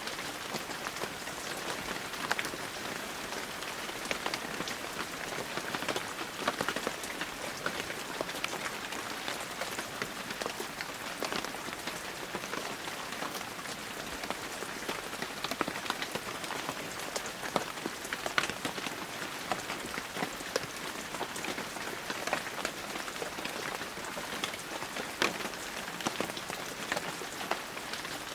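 Heavy rain falling steadily, with many sharp drop impacts ticking close by over the even hiss.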